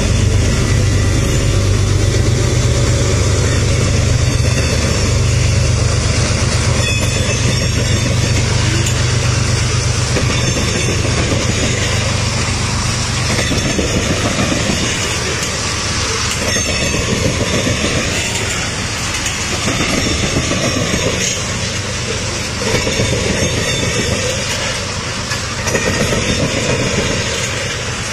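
Freight train passing: railcar wheels rumbling and clattering steadily over the rails. A heavy low drone under it fades out about halfway through.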